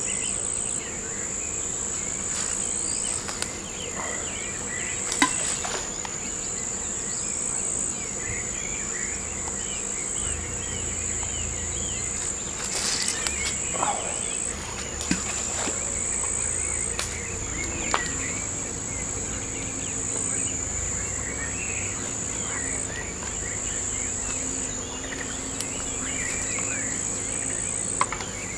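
Insects trilling steadily at a high pitch, shifting slightly in pitch every couple of seconds, with scattered faint bird chirps and a few sharp clicks.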